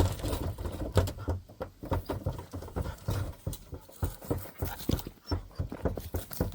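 A bird dog panting, with many irregular short clicks and rustles.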